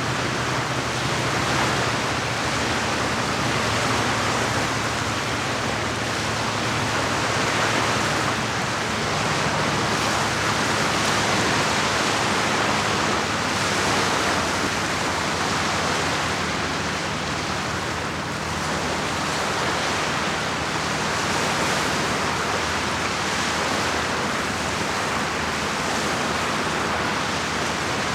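Steady rushing of water, gently swelling and easing, with a faint low steady hum underneath.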